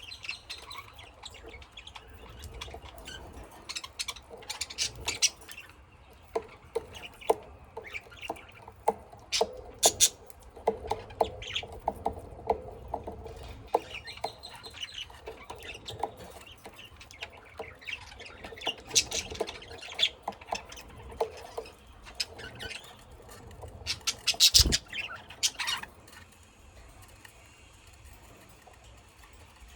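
Small pet cage birds, such as lovebirds and budgies, chirping and squawking in short, scattered calls, with light clicks and patters. A louder knock comes about two-thirds of the way in.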